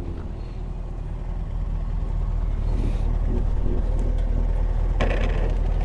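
Motorcycle engine running under way with a steady low rumble that grows louder about two seconds in. A short hiss comes about five seconds in.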